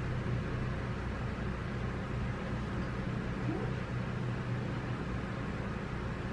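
Snowblower engine running steadily at an even, unchanging pitch.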